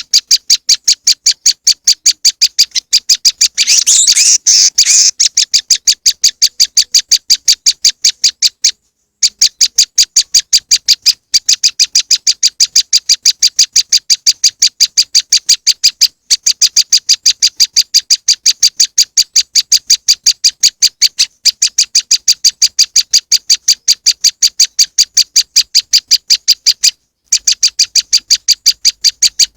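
Olive-backed tailorbird (prenjak lumut) calls on a bird-lure recording: a rapid, even series of sharp high notes, about four a second, broken by brief pauses every few seconds. About four seconds in, a harsher chattering burst runs over the notes for a second or so.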